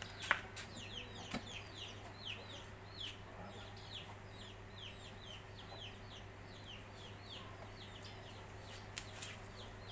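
Small birds peeping: a steady run of short, high, falling peeps, about three a second. A few sharp clicks come through, the loudest one just after the start.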